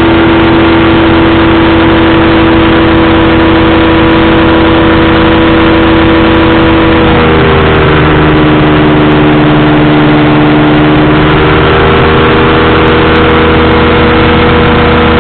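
Powered parachute engine and propeller running loudly and steadily over a dense rushing hiss. About seven seconds in, the engine pitch drops as the throttle is eased back, then rises partway again a few seconds later.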